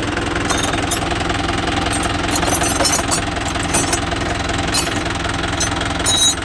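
Swaraj tractor's diesel engine running at a steady speed, with a few short high clicks or rattles now and then.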